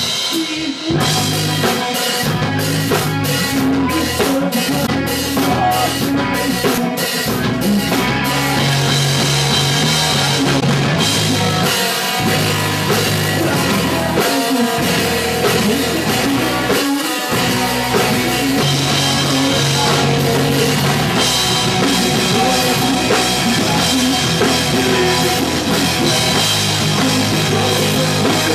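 A punk rock band playing live, with the drum kit to the fore. The band drops out briefly just after the start and again about 17 seconds in.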